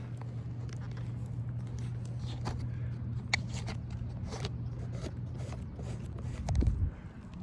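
Asphalt shingles being lifted and handled, giving scattered light scrapes and clicks over a steady low machine hum, with a dull thump near the end.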